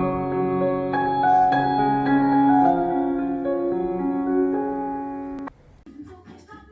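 Background piano music with a slow melody that cuts off abruptly about five and a half seconds in, followed by a few faint clicks and clatters.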